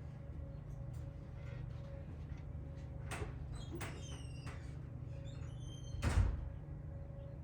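A few sharp clinks with a short ring after them, then one louder thump about six seconds in, over a steady low hum.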